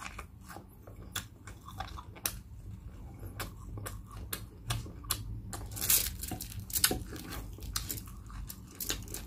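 Close-up chewing and crunching of crispy deep-fried pork leg (crispy pata), with many short sharp crackles of the crisp skin. Near the end the crispy pork leg crackles as it is pulled apart by hand.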